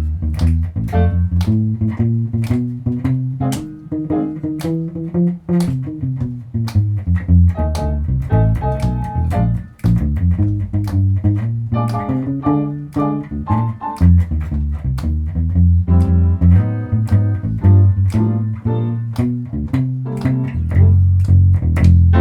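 Live jump blues played without vocals by a small band: a plucked bass carries a prominent moving line, with guitar and piano chords struck in a steady swing rhythm above it.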